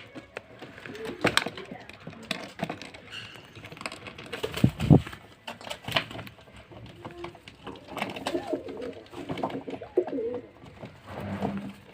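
Domestic pigeons cooing in a loft, with low wavering coos mostly in the second half. Scattered sharp clicks and knocks come in between.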